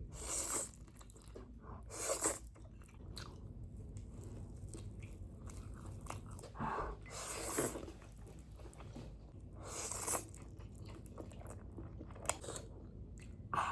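A person eating noodles close to the microphone: chewing and biting, with several short, louder noisy mouth sounds at irregular intervals.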